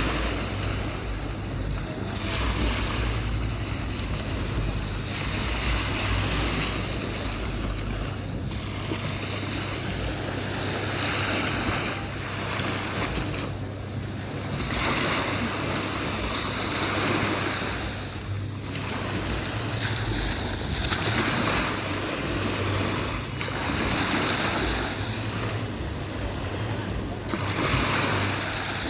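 Sea surf washing in on a beach, swelling and falling back every few seconds, with wind rumbling on the microphone.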